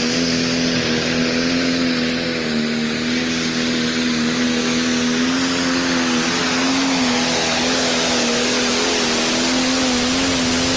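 Competition pulling tractor's engine running hard at near-steady high revs during a pull, with a loud, even exhaust roar whose pitch wavers only slightly.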